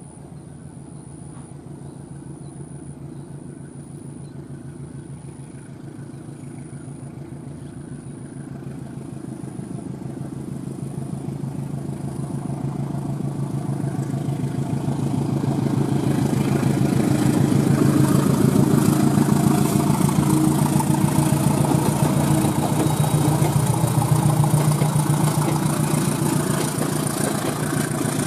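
Diesel-electric locomotive hauling a passenger train, its engine giving a steady drone that grows louder as it approaches and passes. Rapid rhythmic clatter of wheels on the rails is heard through the louder second half.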